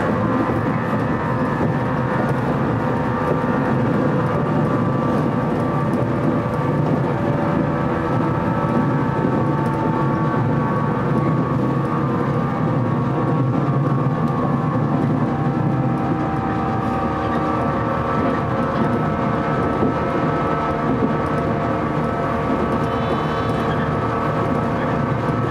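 Electric train running steadily along the line, heard from the front of the train: an even rumble of wheels on rail with several steady whining tones.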